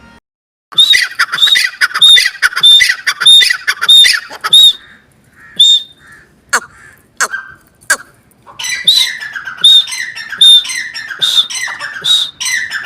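Teetar (francolin) calling: loud, sharp, ringing calls repeated about one and a half times a second in two runs of about seven calls each, with a few scattered single notes between them.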